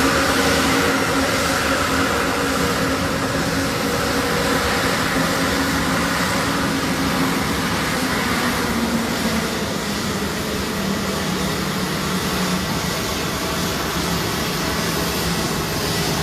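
Aeroplane engines running: a steady rushing noise with a low hum that drops slightly in pitch about halfway through.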